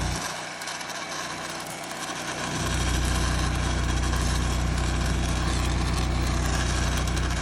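Electric arc welding: a steady low hum over a crackling hiss while the arc burns, breaking off just after the start and striking up again about two and a half seconds in for a longer run that stops sharply near the end.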